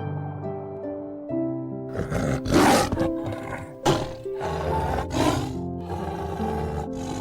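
A large wild animal calling with several rough, noisy roars starting about two seconds in, over gentle background music with sustained notes.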